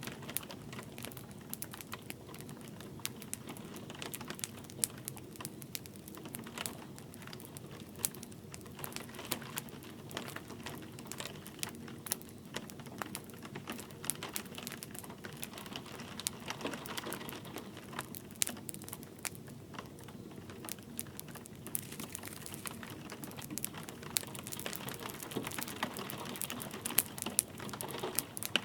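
Wood fire crackling in a fireplace, with frequent irregular pops and snaps over a steady soft hiss of light rain.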